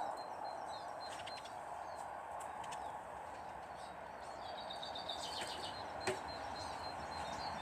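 Small garden birds chirping and twittering, with a quick trill of repeated high notes about two-thirds of the way through, over a steady background hiss. A single sharp click comes a little after six seconds.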